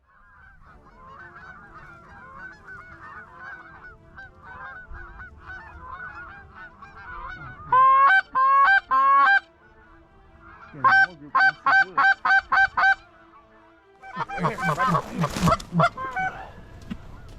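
Canada geese honking: a flock calling faintly at first, then two runs of loud, evenly spaced honks, then many geese calling at once over a rushing noise near the end.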